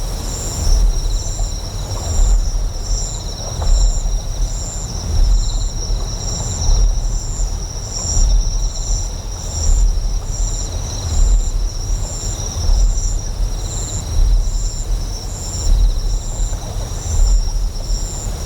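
Designed ambience of a deep generator hum that swells in a slow pulse about every second and a half, under steady high-pitched insect chirping with a regular pulse and a soft wash of flowing water.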